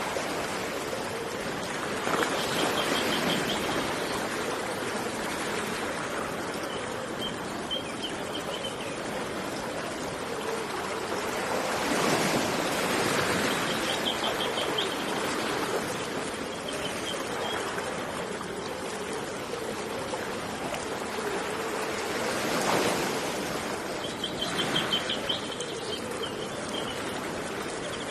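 Running water rushing steadily, swelling now and then, with a small bird's short, rapid trill repeated every few seconds.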